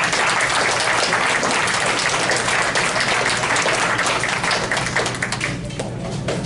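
Audience applauding, dense clapping that thins out about five seconds in.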